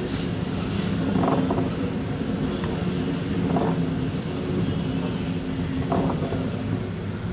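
A boat's engine running with a steady low drone, with a few brief louder swells over it about every two seconds.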